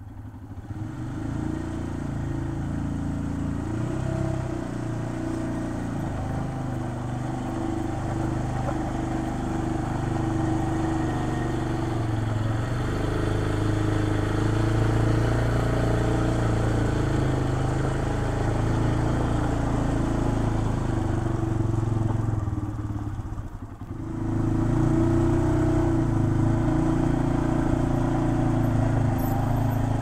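ATV engine running as the quad drives around, pulling a towable backhoe on its front hitch. The engine note shifts a little with throttle and briefly drops out about three-quarters of the way through before coming back louder.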